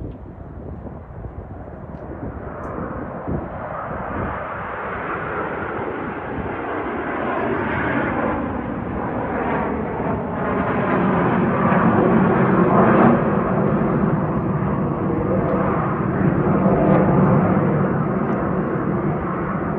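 Jet aircraft passing: the Frecce Tricolore's Aermacchi MB-339 jets running, the roar building over several seconds to its loudest about two-thirds through and staying loud.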